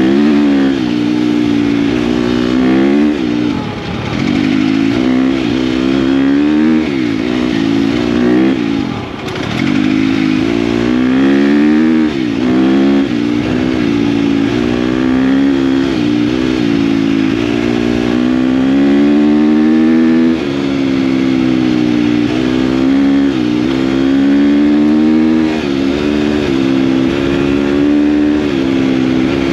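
KTM dirt bike engine running under way, its pitch rising and falling with throttle and gear changes. The revs drop off briefly about 4 and 9 seconds in.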